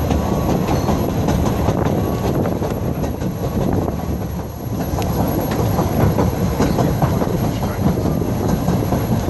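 Narrow-gauge railway coach running along the track, a steady low rumble with irregular clicks of the wheels over rail joints, easing off briefly about halfway through.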